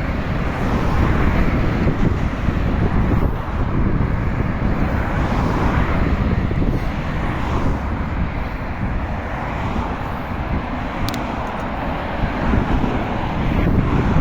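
Steady outdoor road noise heard while cycling: traffic running alongside, with a continuous low rumble of wind on the microphone.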